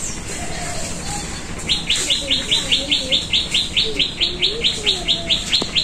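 A bird calling a fast, even run of short chirps, about six a second, starting a couple of seconds in and carrying on without a break.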